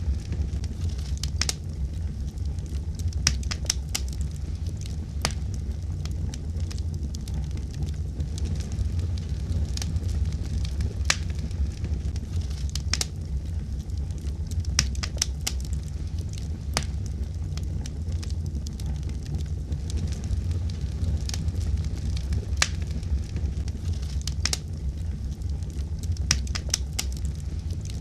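Fire burning in a fireplace: a steady low rumble of the flames with irregular sharp crackles and pops.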